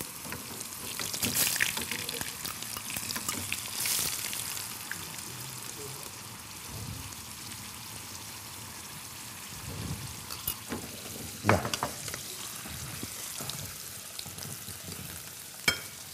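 Slices of taro sizzling steadily as they fry in a pan, with a few sharp clicks, the loudest about two-thirds of the way through and another near the end.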